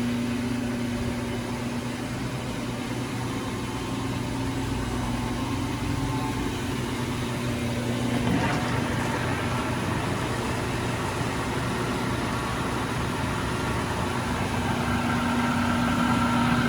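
American Tool Works 20-inch by 54-inch engine lathe running under power, its 20 HP main motor and spindle drive giving a steady hum with a low tone. The sound shifts briefly about eight seconds in.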